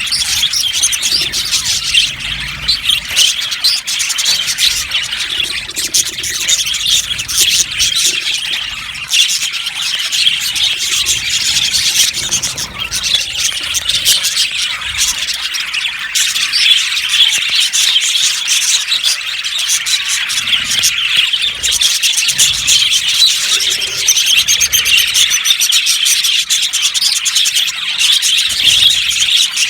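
A flock of budgerigars chirping and warbling continuously, many birds calling over one another in a dense, steady chatter.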